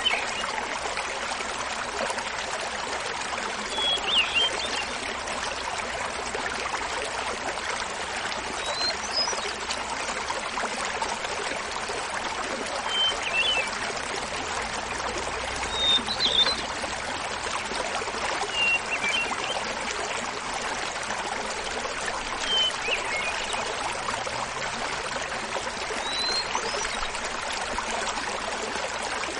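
Small mountain waterfall splashing steadily, with a hermit thrush singing short, high, flute-like song phrases every three to four seconds, about seven in all.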